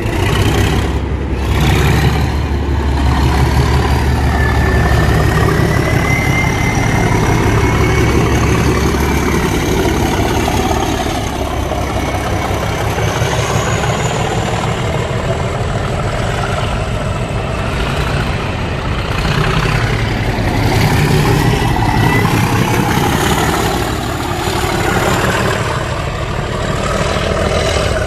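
Class 37 diesel-electric locomotive's engine running heavily, with a high whistle that slowly rises in pitch and comes back again later.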